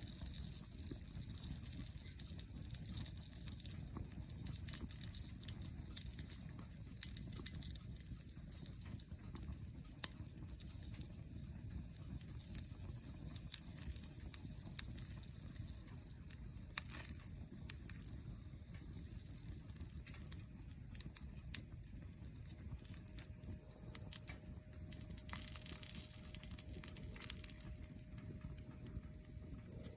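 A steady high insect trill over a low rumble, with scattered sharp crackles of a wood campfire.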